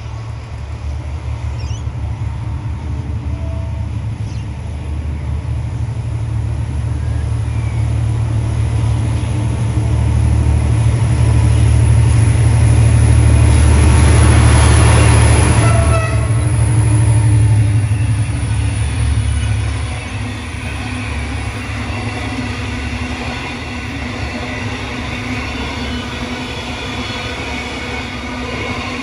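Two Clyde/EMD GT22LC-2 diesel-electric locomotives pass, their engines' low rumble building to a peak about halfway through, then fading as a long rake of empty cattle wagons rolls by with a steady rolling wheel noise.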